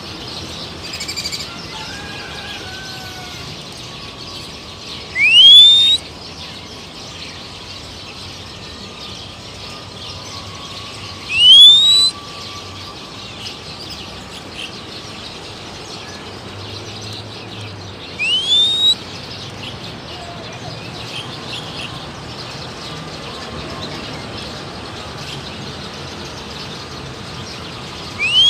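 Short, loud whistles rising sharply in pitch, repeated four times about six seconds apart, with fainter wild birdsong between them.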